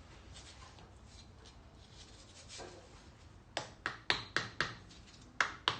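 Faint handling, then from about three and a half seconds in, a quick run of about eight sharp metallic taps and clinks as the cylinder head of a 1969 Fiat 500 engine is worked loose.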